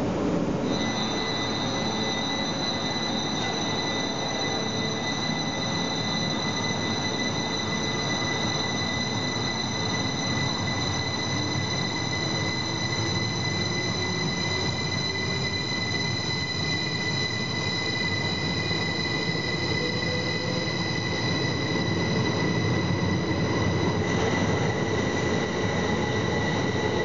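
Electric train in an underground station, giving a steady high-pitched whine of several tones over a low rumble. Through the middle, a lower tone slowly rises in pitch.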